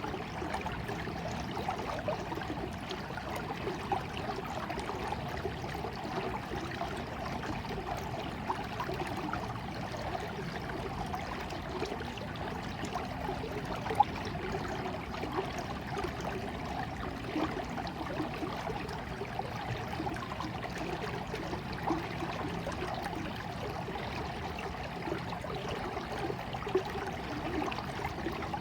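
Stream water flowing steadily, with many small irregular splashes and one sharper splash about halfway through.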